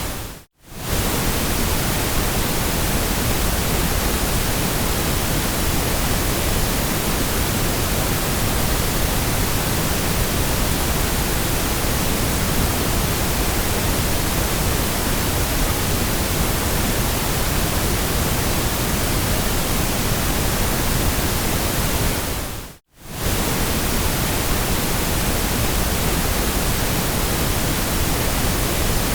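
Steady electronically generated noise, an even hiss spread from deep to high pitches. It briefly fades out to near silence and back in twice, about half a second in and again about 23 seconds in.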